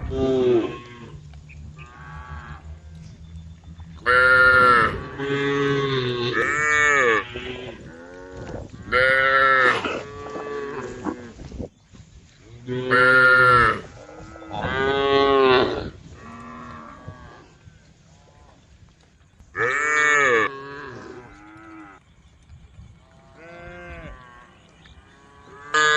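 Cows mooing, calling to the herd: about seven separate moos, each about a second long, some in quick pairs, with quieter gaps between them.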